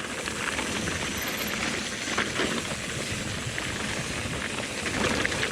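Mountain bike rolling fast down a dirt trail: a steady rush of wind and tyre noise with small rattles and clicks from the bike.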